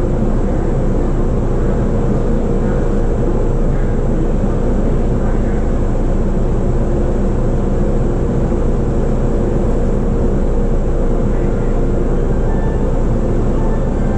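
Running noise of a JR East E233-series electric commuter train heard from inside the car: a steady rumble of wheels on rail with a steady hum underneath.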